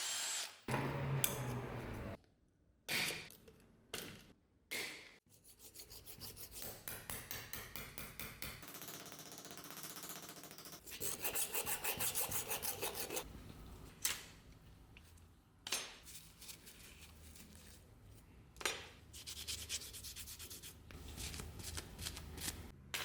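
Rapid back-and-forth rubbing strokes of hand abrasive work on the knife, about four strokes a second, in several short spells with brief breaks and a few sharp knocks between them.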